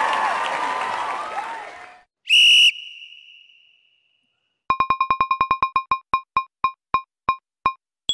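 A busy wash of overlapping sound fades out in the first two seconds. Then comes a single loud electronic ding, followed by a run of short beeps that start fast and slow down until they stop.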